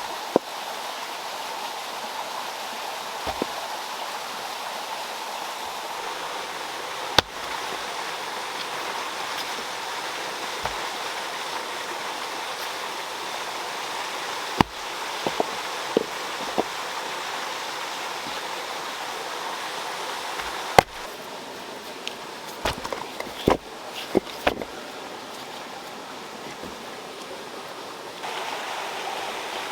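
Steady rush of running water, broken by scattered sharp knocks, with a cluster of several in quick succession in the last third.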